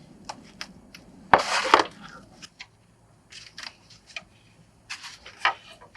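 Handling noises as a string of fairy lights and its solar battery block are put in place: scattered small clicks and taps, with one louder rustle about a second and a half in.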